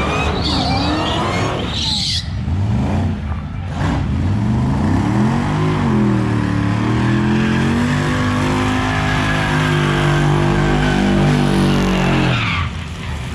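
Car engine accelerating hard in a drag race, its pitch climbing, dropping back at gear changes and climbing again. It cuts off abruptly near the end.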